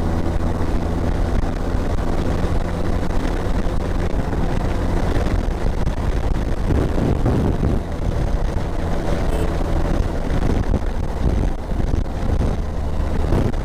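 Motorcycle engine running at a steady cruise, with wind rushing over the microphone. The engine's steady hum blurs into rougher noise for a few seconds mid-way, then steadies again.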